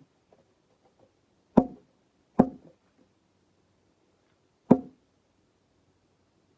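Three sharp, hollow knocks of a ball striking a bat and hard surfaces during a cricket game. Each knock rings briefly. The first comes about a second and a half in, the second close after it, and the third near the end.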